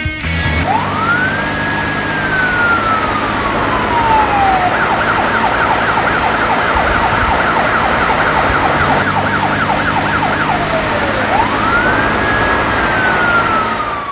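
Police car siren: a slow wail that rises and then falls away, switching to a fast yelp of about four up-and-down cycles a second, then back to a rising wail near the end.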